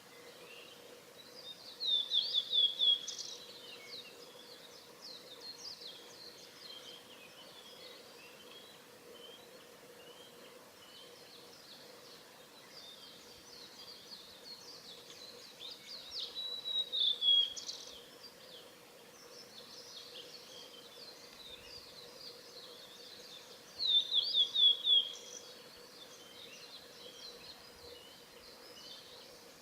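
Male blue-and-white flycatcher singing: three loud phrases of quick notes, each ending in a run of falling notes, near the start, about midway and about two-thirds in, with quieter bird chirping between them.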